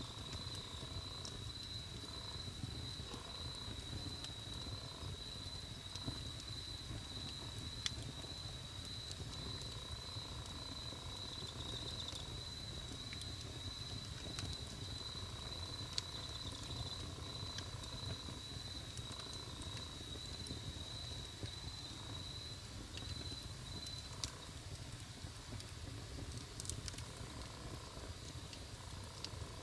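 Wood campfire burning with a low steady rumble and occasional sharp pops. A steady, high-pitched pulsing trill runs behind it and stops about 24 seconds in.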